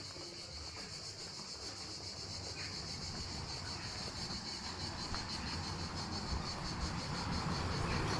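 A steady, high, pulsing chorus of insects, with the low rumble of a vehicle growing louder toward the end as it approaches.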